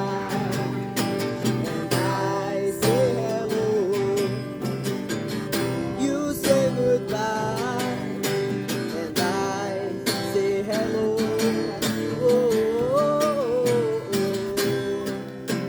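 Acoustic guitar strumming a steady rhythm, with a wavering melody line carried over it and no sung words: an instrumental passage of a Portuguese-language song.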